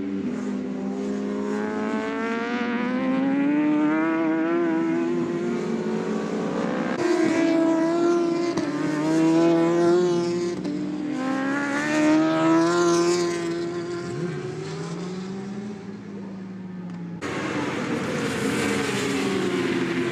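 Endurance racing motorcycles running at high revs, engine pitch climbing and dropping through gear changes as bikes pass. Two or more engines overlap, and the sound cuts abruptly to another shot about 17 seconds in.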